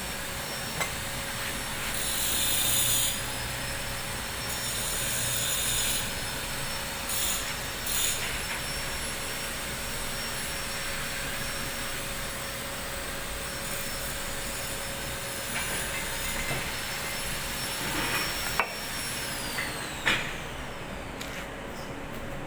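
Stick (SMAW) welding arc crackling and hissing in several short bursts as tack welds are laid, over a steady high whine. Two sharp clicks near the end.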